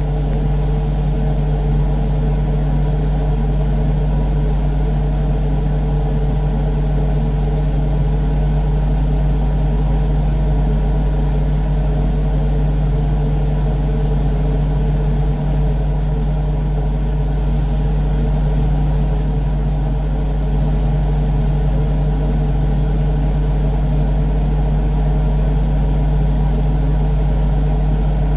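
Electric wall fan running steadily, its motor giving a loud, even hum with the whir of the spinning blades.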